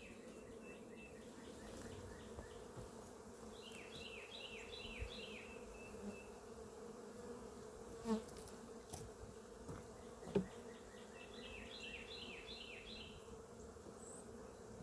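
Honeybees buzzing steadily around an open hive as its frames are inspected. A short run of high repeated chirping notes sounds twice, about four seconds in and again near the end.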